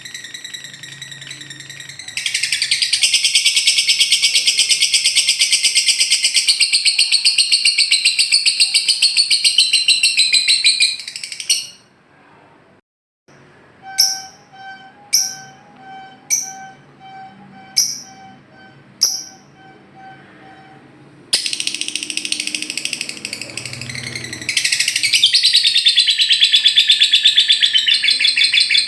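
Lovebird ngekek: long, rapid, high-pitched trilling chatter. It breaks off for a moment just before the middle, gives way to six sharp chirps about a second apart over a repeating lower tone, then the trilling resumes and grows louder near the end.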